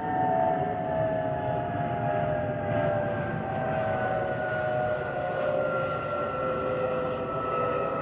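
Airbus A319 wing fuel over-pressure protector (FOPP) vents whistling in the airflow: several eerie whistling tones sliding slowly down in pitch over the steady rush of the aircraft. The whistle is the airflow over the FOPP cavities on the underside of the wing.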